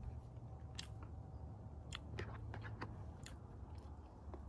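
Close-miked eating: chewing with a few sharp wet clicks and smacks, over a steady low rumble.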